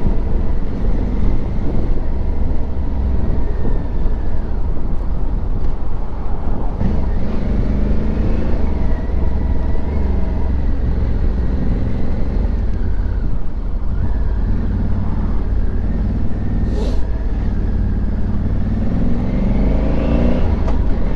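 Honda Africa Twin Adventure Sports motorcycle being ridden: its parallel-twin engine running under way beneath heavy wind rumble on the microphone. The engine pitch rises and falls a few times with the throttle.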